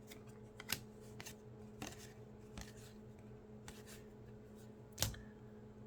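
Trading cards being handled and slid one behind another: scattered soft card rustles and light clicks, the loudest about five seconds in.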